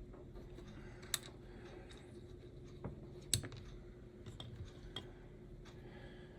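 Small hard clicks and taps of tiny parts and tools being handled on a workbench, two of them sharper than the rest, over a steady low hum.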